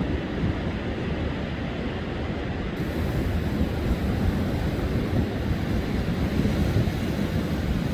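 Storm-driven surf rushing steadily, with strong wind buffeting the microphone. A brighter hiss joins about three seconds in.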